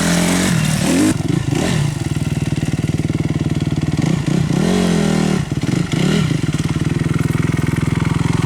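Dirt bike engine running, its revs rising and falling a few times, then holding steady through the last few seconds.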